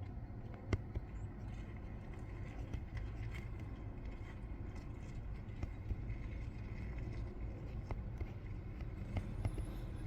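Low, steady background rumble with scattered faint clicks and taps, one sharper tap about three quarters of a second in.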